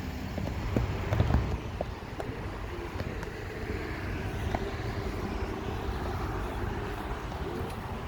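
Steady low rumble of a car engine running, with a louder low swell about a second in, over general outdoor background noise.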